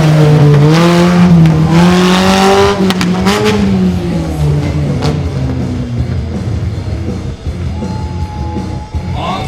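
Mini monster truck engine revving hard, its pitch rising and falling for about three and a half seconds, then easing to a lower, quieter running note. Music comes in near the end.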